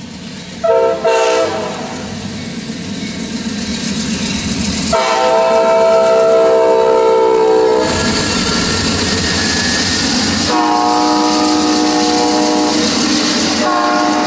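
Amtrak passenger train passing a grade crossing, its GE Genesis diesel locomotive sounding its chord horn: a short double toot about a second in, a long blast around five seconds in, and two more long blasts near the end. From about eight seconds in the rumble of the locomotive and the clatter of the cars' wheels over the rails grows loud and steady.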